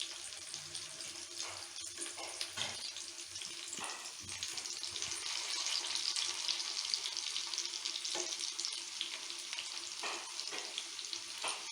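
Marinated chicken kabab pieces frying in hot oil in a pan: a steady crackling sizzle that grows a little louder midway, with a few light knocks.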